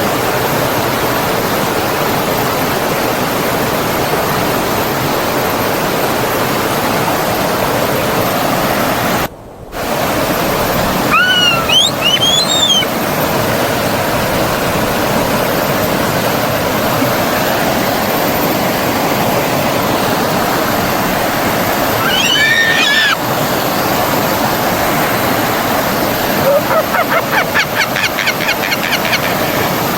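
Steady rushing of a forest stream or waterfall. It cuts out for about half a second a little after nine seconds in. Birds call over it twice with short, sweeping whistles, and a fast trill follows near the end.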